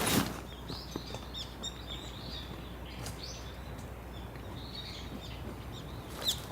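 Small birds chirping with many short, quick calls over a steady low background rumble, with a brief loud noise right at the start.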